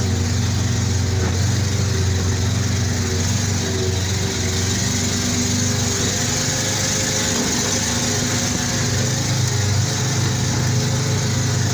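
Armoured personnel carrier's engine running steadily under way, a heavy low drone with a hiss over it; the engine note shifts a little about halfway through.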